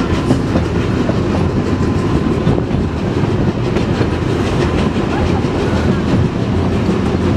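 Narrow-gauge train's coaches running along the track, heard from aboard: a steady rumble.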